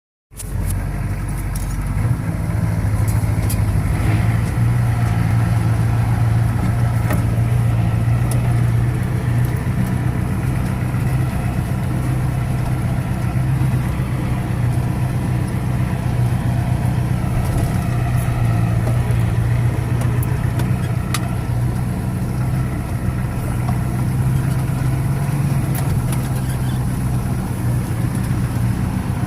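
1985 Ford 6.9 diesel V8 engine running steadily, a little louder from about two seconds in.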